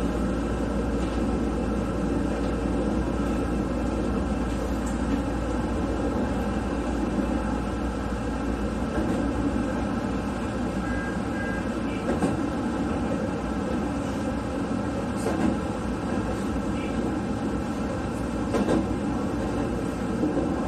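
Keihan 10000 series electric commuter train running, heard from behind the driver's cab: a steady rumble of wheels on rail with several steady motor tones, and a low drone that fades out about halfway. A few sharp clacks come in the second half as the wheels cross rail joints.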